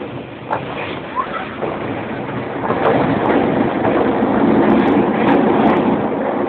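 A train running, heard from inside a passenger carriage: a steady rumble and rattle of the wheels on the track, with a few short knocks, getting louder about three seconds in.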